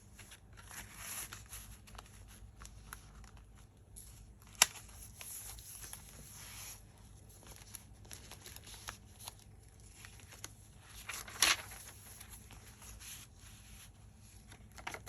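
Paper pages of a handmade junk journal being turned and handled, with soft rustling and crinkling and small taps. There is a sharp click about four and a half seconds in and a louder rustle about eleven seconds in.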